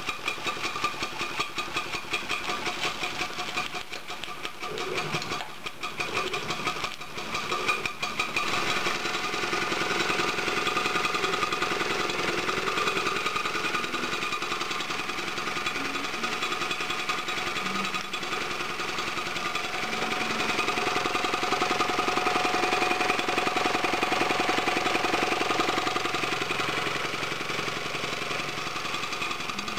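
Markie model live-steam road locomotive's steam engine running with a rapid, even mechanical clatter. It is more uneven at first and becomes steadier and a little louder about eight seconds in.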